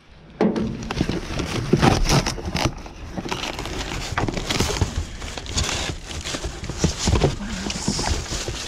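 Plastic bags and packaging being rummaged through: continuous irregular rustling and crinkling with scattered knocks.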